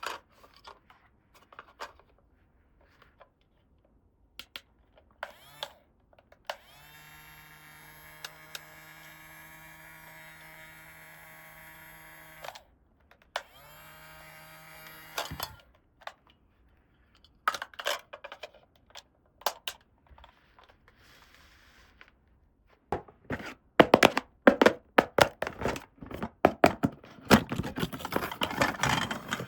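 Small plastic toy pieces being handled, giving scattered clicks and taps, then dense clicking and clattering in the last several seconds. In the middle, a steady buzzing tone holds for about six seconds, stops for a second, and runs briefly again.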